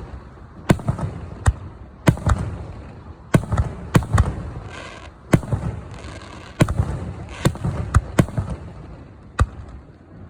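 Aerial fireworks shells bursting: sharp bangs in quick clusters every second or two, each followed by a low, rolling rumble.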